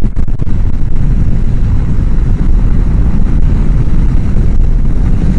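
Steady wind rush and low rumble of a Honda CBR1000F motorcycle ridden at road speed, picked up by a helmet microphone behind the chin-bar air vent, so the wind drowns out most of the engine.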